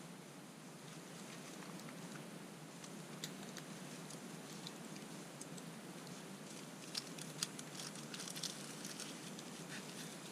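Wood campfire burning with a steady hiss and scattered sharp crackles and pops, which come thickest in a cluster about seven seconds in.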